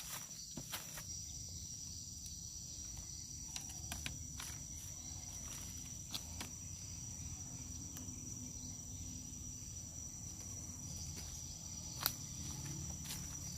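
Steady, high-pitched chorus of insects, with a low rumble underneath and a few sharp clicks scattered through, the loudest one near the end.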